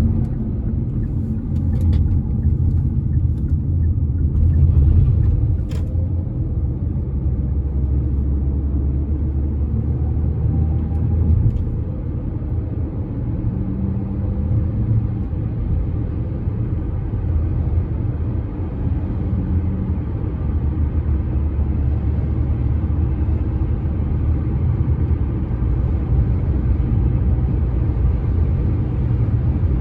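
Steady, loud low rumble from a bridge, with a few brief clicks in the first six seconds.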